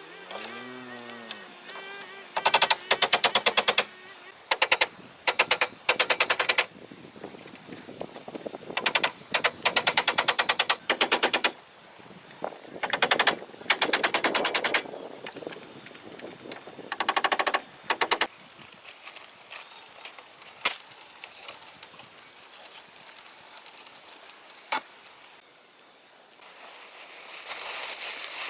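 A power tool rattling in short, repeated bursts of rapid clicking, each about a second long, with quieter gaps between. The bursts stop about two-thirds of the way in, leaving a few single clicks and a rustling that grows louder near the end.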